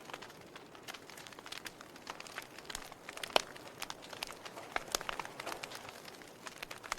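Wood fire burning in a fireplace, with irregular crackles and snaps of burning logs over a low steady hiss; one sharper pop about halfway through.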